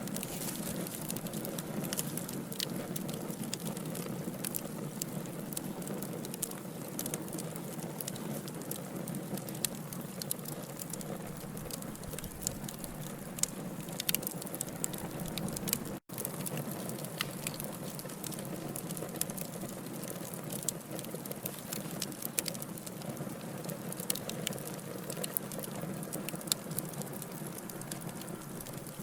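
Wood fire burning: logs crackling with frequent small pops over a low, steady rumble. There is a split-second break in the sound about halfway.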